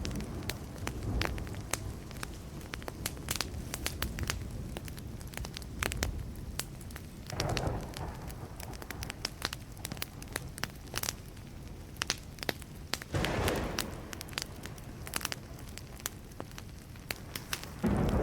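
Wood fire burning, with dense, irregular crackles and sharp pops throughout. Two brief low rumbles come through, one a little before the middle and one about two-thirds of the way in.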